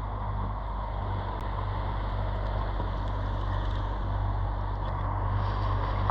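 Steady low hum of the jon boat's motor, with an even wash of wind and water noise over it.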